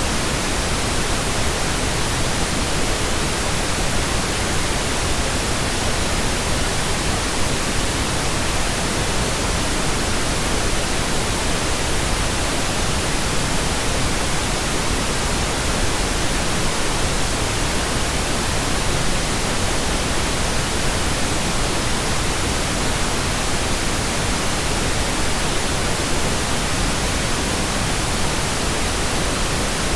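Steady computer-generated pink noise: an even, unchanging hiss spread across all pitches.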